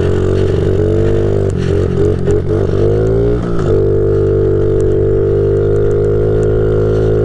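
Honda CRF50 pit bike's small air-cooled four-stroke single-cylinder engine running under way. The engine speed wavers up and down between about one and a half and three and a half seconds in, then settles to a steady drone.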